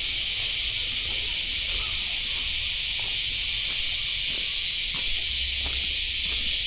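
Steady, loud chorus of buzzing insects in high, even drone, with faint regular footsteps at walking pace underneath.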